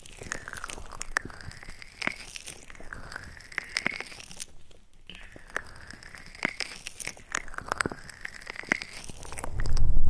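Close-up ASMR mouth sounds: wet clicks and crunchy, chewing-like smacks right at the microphone in irregular clusters, the 'brain-chewing' trigger. A low thud just before the end.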